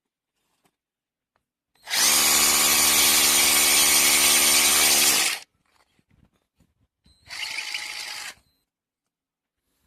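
Einhell TE-HD 18 Li cordless rotary hammer running on its replaced trigger switch: a steady run of about three and a half seconds, then, about two seconds later, a second shorter and quieter run.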